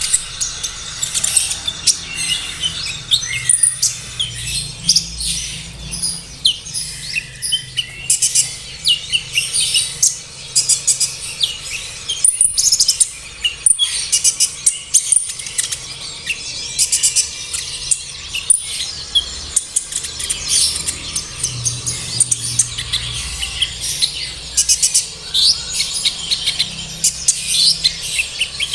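Van Hasselt's sunbird (kolibri ninja) singing: a continuous run of rapid, high-pitched chirps and twittering trills, with a faint low hum underneath.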